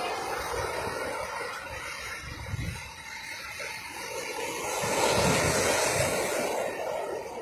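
Ocean surf on a beach: a continuous rushing wash of breaking waves that swells to its loudest about five seconds in.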